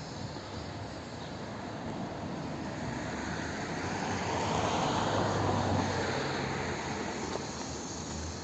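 A passing vehicle: its noise swells to a peak about halfway through and then fades away.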